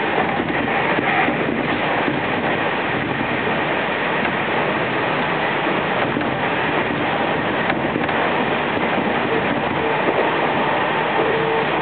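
Steady running noise of an electric commuter train at speed, heard from inside the carriage: wheels on the rails and the car body rumbling.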